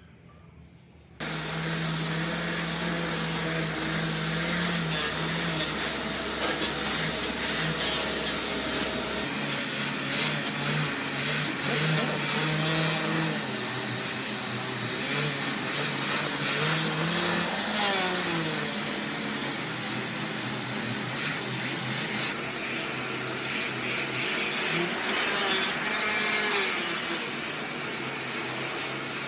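An electric power tool starts suddenly about a second in and runs steadily at a high, whining pitch while it works wood.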